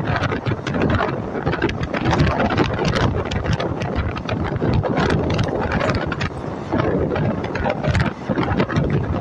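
Passenger train running: a steady, loud rumble with many rattles and sharp clicks, and wind buffeting the microphone.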